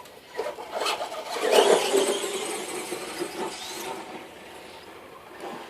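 RC car driving hard, its motor whirring up, loudest about a second and a half in, then easing off and fading after about four seconds.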